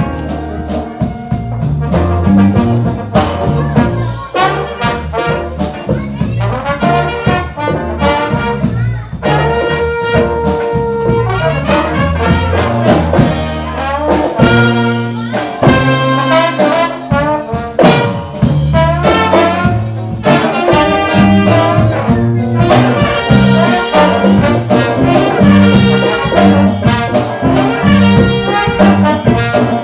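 A live band with a brass section of trumpets and trombones playing an upbeat jazz-funk tune over a walking bass line and drums.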